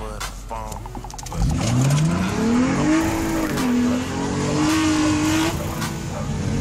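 Nissan Altima SE-R's 3.5-litre V6 revved hard from a standstill in a burnout launch, heard from inside the cabin, with the tires squealing. The engine note climbs steeply from about a second in, dips briefly partway through, then holds high before easing off near the end.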